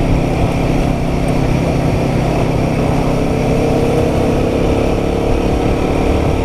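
Royal Enfield Guerrilla 450's single-cylinder engine running steadily on the move. The engine note climbs slightly about halfway through.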